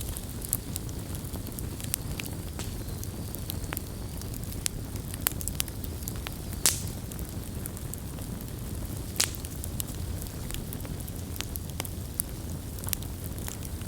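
Wood campfire burning, a steady low rumble under irregular sharp crackles and pops, with a louder pop about two-thirds of the way through.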